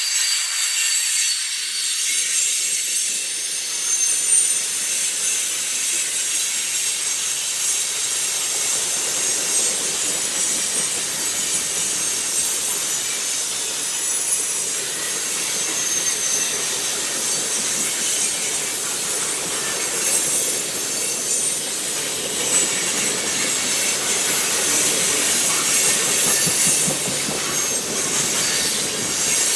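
Cars of a CSX manifest freight train rolling past, their wheels giving a steady, high-pitched squeal over a hissing rail noise.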